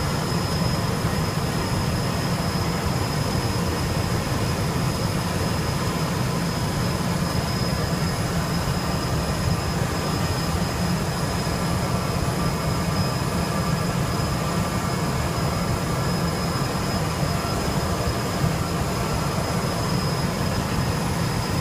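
Twin Garrett TFE731 turbofan engines of a C-21 (military Learjet 35A) held at takeoff power: a loud, steady roar with a deep rumble and a high, even whine over it, never changing.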